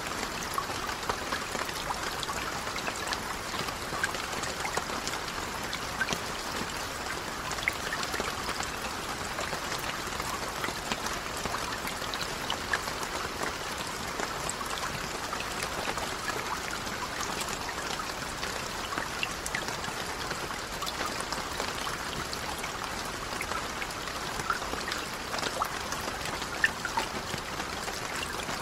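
Steady rain falling on a lake: an even hiss dotted with many sharp little drop ticks.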